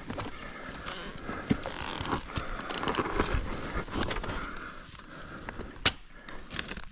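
Irregular scraping and rustling with scattered light knocks and clicks, with no engine running steadily.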